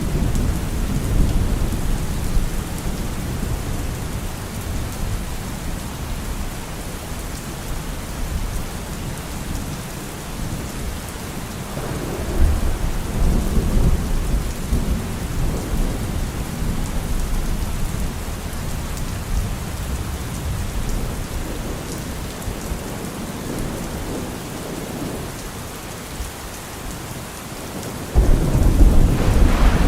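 Steady heavy rain with rolling thunder. A deep rumble of thunder swells about halfway through, and a sharper, louder thunderclap breaks near the end.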